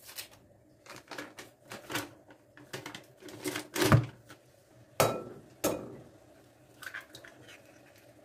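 Kitchenware clinking and knocking as it is handled, a string of sharp knocks with the loudest about four and five seconds in.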